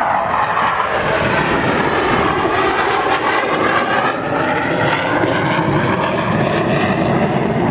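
Jet noise from two BAE Hawk T2 trainers flying in close formation, each powered by a Rolls-Royce Adour turbofan: a loud, steady roar with a slowly wavering, phasing tone as they pass.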